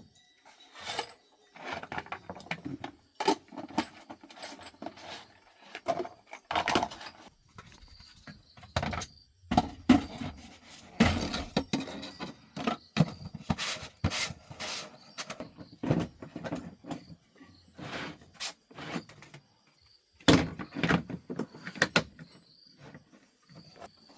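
Irregular clicks, knocks and short scraping noises of hands working with tools and car parts.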